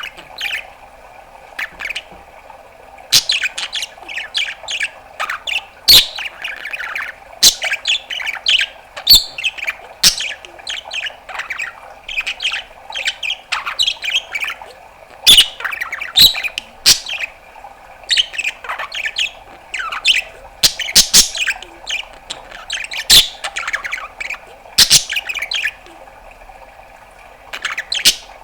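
Budgerigar chattering: a continuous, irregular run of chirps, warbles, clicks and sharp squawks, over a steady background hum.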